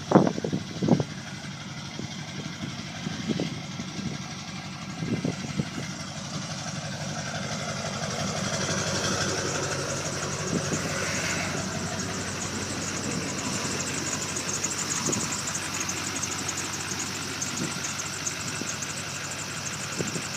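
2002 LB7 Duramax 6.6-litre V8 turbodiesel idling steadily after a fuel filter change and a re-prime of the fuel system cured its no-start. A few sharp knocks come in the first seconds, and the sound gets a little louder about eight seconds in.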